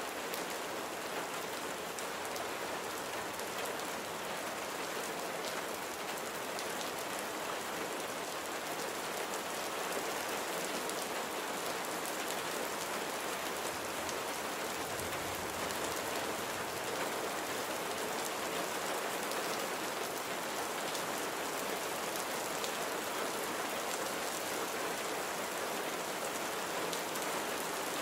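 Steady, even rainfall with the small clicks of individual drops striking a surface throughout.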